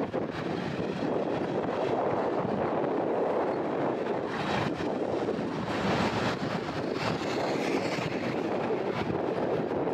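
Freight train rolling past, a steady rumbling noise with faint knocks now and then.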